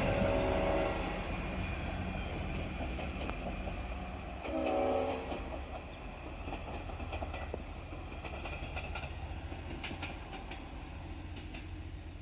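V/Line train's horn sounding twice, about a second each time: at the start and again about four and a half seconds in. It plays over the steady low rumble of the train, which slowly fades, with scattered clicks of wheels over the rails later on.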